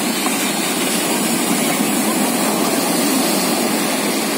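Sea waves breaking on a beach: a steady rushing wash of surf that swells a little midway.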